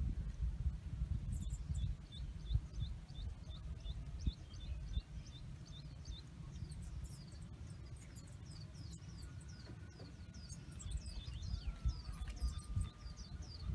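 Small birds chirping in quick runs of short, falling high notes, over a steady low rumble.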